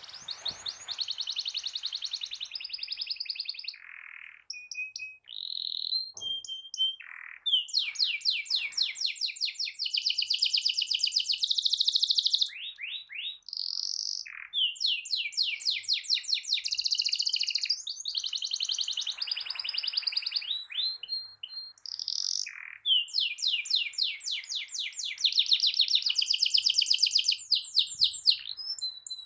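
Domestic canary singing long, fast rolling trills of rapidly repeated high notes, broken by short whistled phrases and brief pauses.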